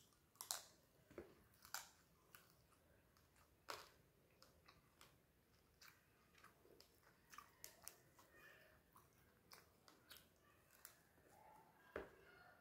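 Close-miked chewing and biting of fried fish and rice: an irregular run of sharp crunches and wet mouth clicks, the strongest about half a second in, near four seconds and near the end.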